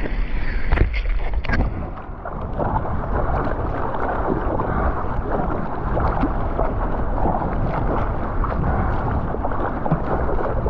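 Choppy water sloshing and splashing around a kayak being paddled through moving water, with wind on the microphone. Two sharp knocks in the first two seconds.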